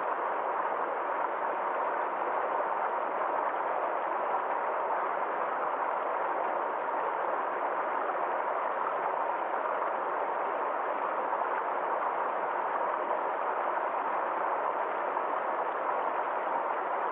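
Forest stream flowing steadily: an even rush of running water that does not change.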